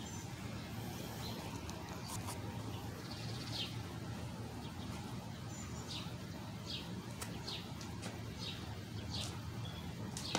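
A bird chirping repeatedly in short, falling notes over a steady low background hum.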